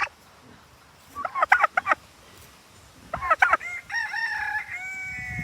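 Rooster crowing: a few quick opening notes about three seconds in, then one long drawn-out note that trails off near the end. A short burst of rapid bird calls comes about a second in.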